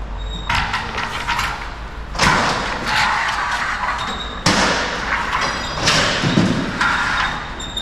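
Repeated heavy thuds and clangs from garage door hardware being worked on, about five impacts a second or so apart, each with a short metallic ring.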